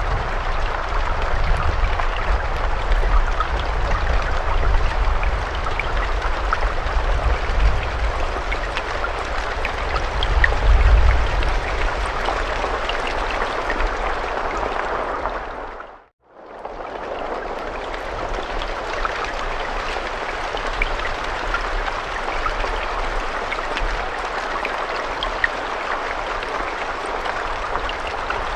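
Steady rain, with a dense patter and scattered sharper drop ticks over a low rumble that is strongest in the first half. About sixteen seconds in the sound fades out to nothing and fades straight back in.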